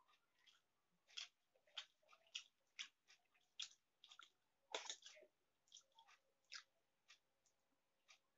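Close mouth sounds of someone eating Maggi instant noodles and fried egg: quiet chewing and lip smacks, a short sharp one about every half second, the loudest about five seconds in.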